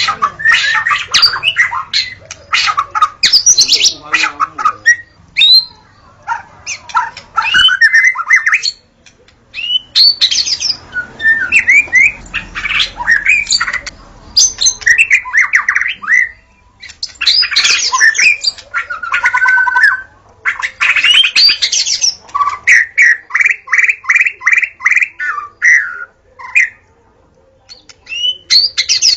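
White-rumped shama (murai batu) singing: loud, varied phrases of rapid whistles, trills and harsher notes in bursts, with short pauses between them.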